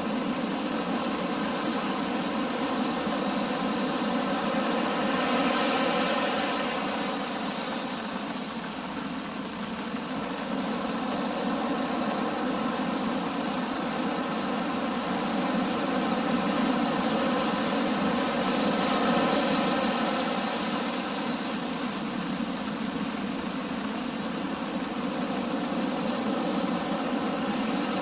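Stormy sea in wind and rain: surf washing in and wind rushing, swelling about six seconds in and again around eighteen to twenty seconds, over a steady low hum.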